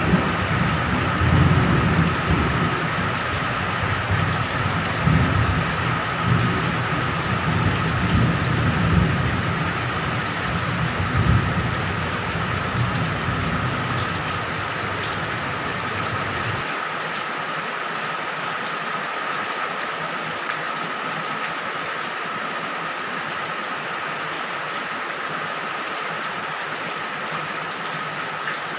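Steady rain pouring down, with a low rolling rumble of thunder under it for the first half; the rumble cuts off abruptly about 17 seconds in, leaving only the rain hiss. A thin steady tone runs under it throughout.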